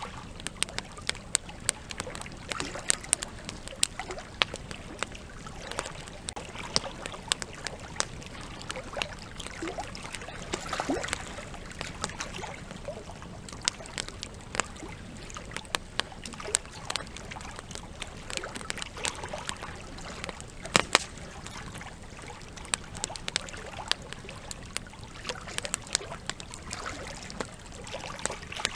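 Wood campfire crackling with frequent sharp, irregular pops, one louder pop about three quarters of the way through, over the steady rush of a river.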